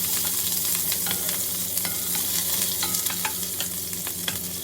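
Chopped onion and ginger sautéing in hot oil in a cooking pot as they are stirred, a steady sizzle with many small crackles. A steady low hum runs underneath.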